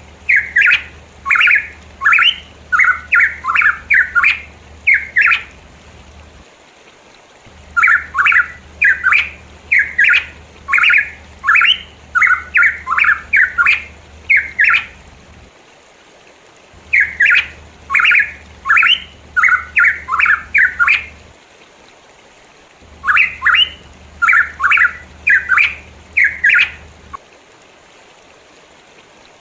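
Pitohui calling in four runs of quick repeated notes, about two to three a second. Each run lasts several seconds, with short pauses between, and the calling stops a couple of seconds before the end.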